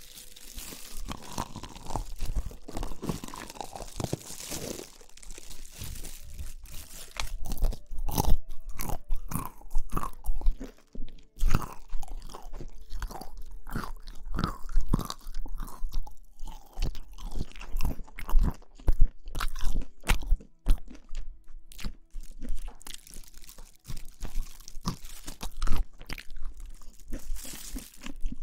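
Close-miked crunching and chewing of crisp food: a dense, irregular run of sharp crunches.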